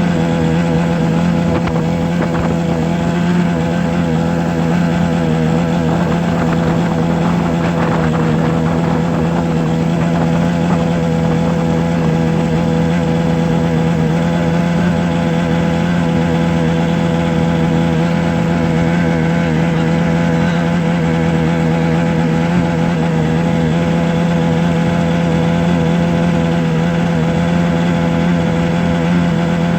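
A steady motor drone holding one pitch with many overtones, loud and even throughout.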